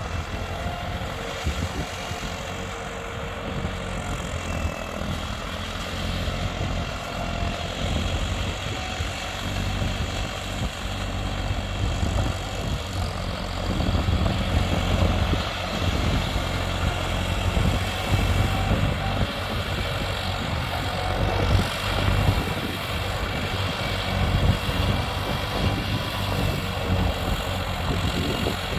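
Diesel engine of a tractor or similar heavy farm or earth-moving machine running steadily under work, its loudness rising and falling a little.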